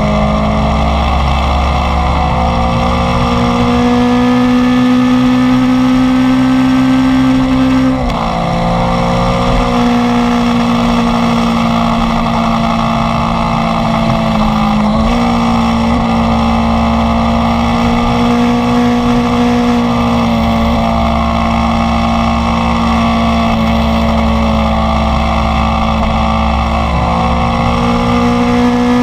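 Inline-four sport motorcycle engine pulling under steady acceleration. Its pitch climbs slowly, then drops three times as it shifts up a gear, over low wind rumble.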